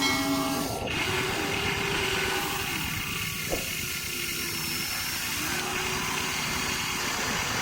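Electric motors and gearboxes of Huina radio-controlled toy excavators whining as they dig, the pitch sliding up and down as the movements change, with a single click about halfway through.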